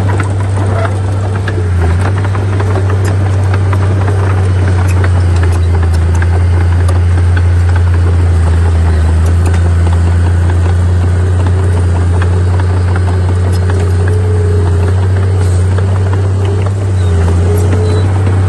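Heavy diesel earthmoving machinery running steadily with a deep, constant drone, with scattered short clicks and knocks throughout.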